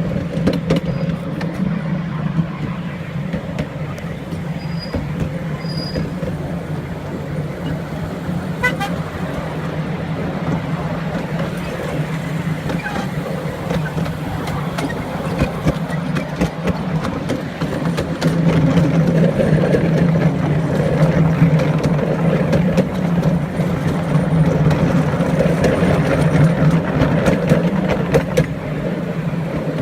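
Diesel train engine running with a steady low drone, growing louder about two-thirds of the way through.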